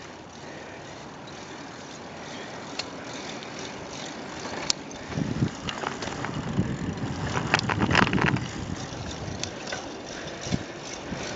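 Bicycle being ridden: steady wind and rolling noise, with scattered clicks and rattles that bunch together and grow loudest around the middle.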